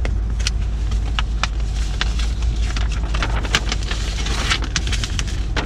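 Steady low rumble of a car heard from inside the cabin, with scattered sharp clicks.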